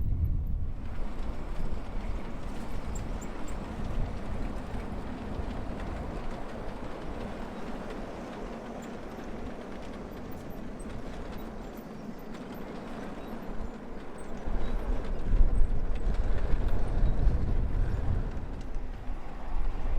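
A 5-inch gauge miniature freight train, an electric-motored model Class 20 locomotive hauling a long rake of box vans, runs along the track with the wagons' wheels clattering. From about two-thirds of the way through, wind buffets the microphone with a low rumble.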